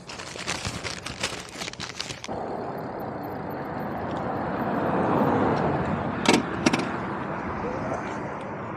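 About two seconds of crackling, clicking handling noise, then a road vehicle passing by, its tyre and engine noise swelling to a peak and fading away, with two sharp ticks near the peak.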